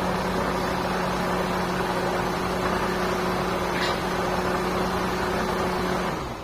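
A steady machine running with a low hum and a hiss, which stops shortly before the end.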